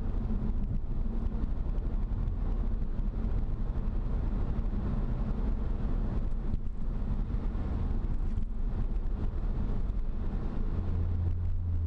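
Road and tyre noise inside the cabin of a Ford Fusion Sport cruising at about 75 mph, over the low, steady hum of its twin-turbo V6 through a Magnaflow axle-back exhaust with both resonators deleted. The road noise is louder than the exhaust, and the low hum grows stronger near the end.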